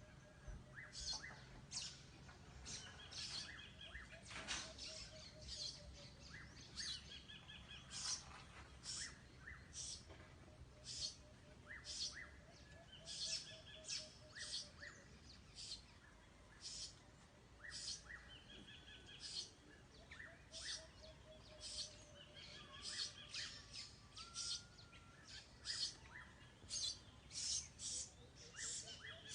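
Several birds chirping, with many short high chirps all through. A lower, rapidly pulsed call slides slowly down in pitch and comes back every few seconds.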